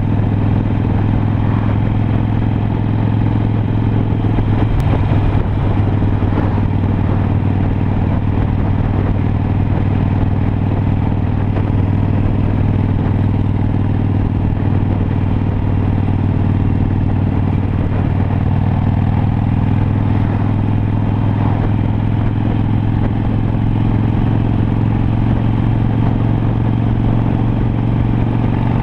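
Harley-Davidson Sportster Iron 883's air-cooled V-twin engine running at a steady cruising speed, its note holding an even pitch.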